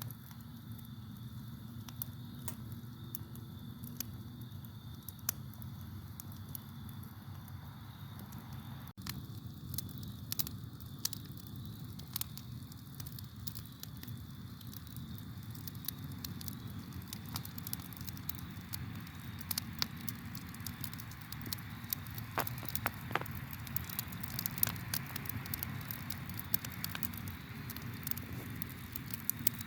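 Campfire crackling and popping over a steady low rumble of burning wood, with a constant high cricket trill behind it. The pops come thicker in the second half, and the sound briefly cuts out about nine seconds in.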